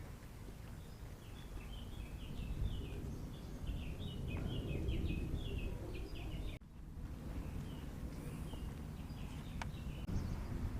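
Small birds twittering in quick runs of high chirps over a low outdoor rumble. The sound cuts out briefly about six and a half seconds in, then the twittering resumes.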